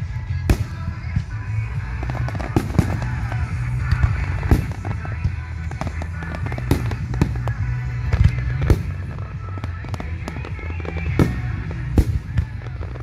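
Aerial fireworks shells bursting overhead, a dozen or so sharp bangs at irregular intervals, with music playing underneath.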